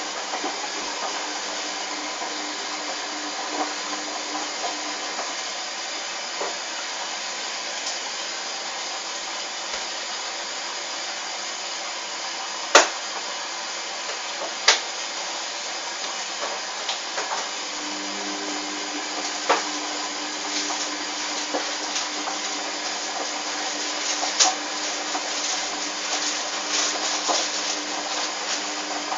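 Hoover washing machine running with a steady whirring hiss, a low hum joining about two-thirds of the way through. Several sharp clicks or knocks sound over it, the loudest about halfway through.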